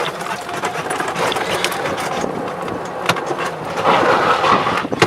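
Golf cart driving across a yard: a steady rumbling, rattling noise with scattered knocks.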